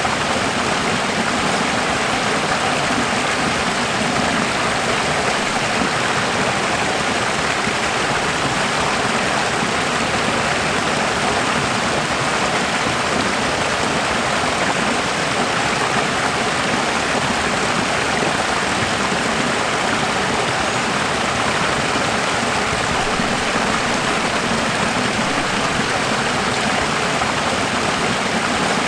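Running water, a steady even rush like a stream or small waterfall, unchanging throughout.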